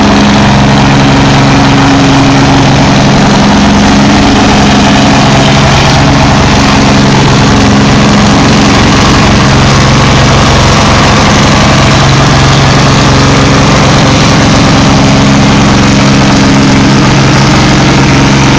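John Deere 4020 tractor engine running loud and hard at a tractor pull, its note steady, then rougher and unsteady for several seconds in the middle before settling again.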